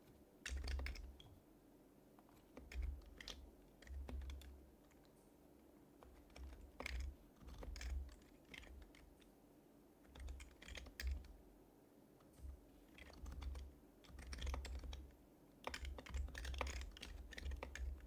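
Typing in short bursts on an HHKB Professional HYBRID Type-S keyboard with quietened Topre switches, quick runs of keystrokes broken by pauses of about a second, with a low thud beneath each burst.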